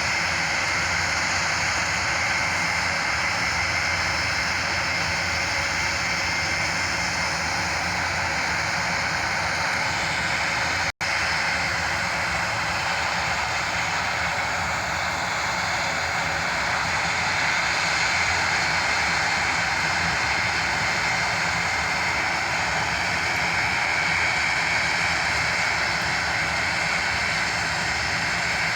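Airbus A400M's four turboprop engines running with a steady drone and whine. The sound cuts out for a split second about eleven seconds in.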